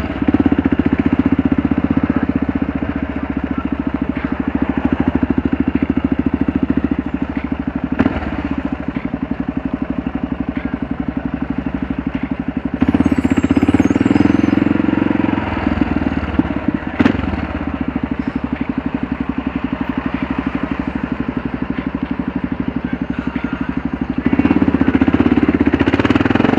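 Kawasaki KLR 650's single-cylinder four-stroke engine running steadily while riding at low speed, getting louder for a couple of seconds about halfway through and again near the end.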